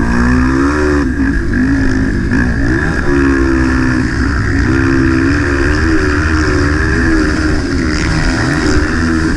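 Motocross motorcycle engine revving hard while riding, its pitch rising and falling again and again as the throttle opens and closes through the turns and shifts.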